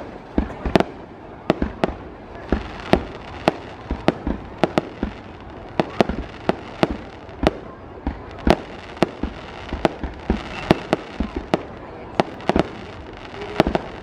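Fireworks display: a continuous run of sharp bangs from exploding shells, about two to three a second at uneven spacing, over a steady background din.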